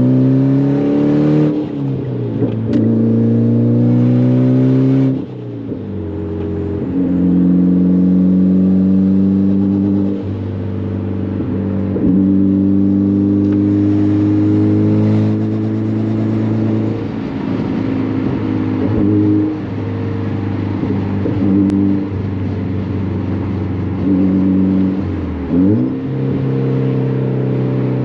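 Turbocharged Mitsubishi Lancer Evolution X Final Edition with an open dump, full titanium exhaust and big turbo, accelerating hard. The engine note climbs in pitch and drops away several times as it pulls and shifts, with a quick dip and rise near the end.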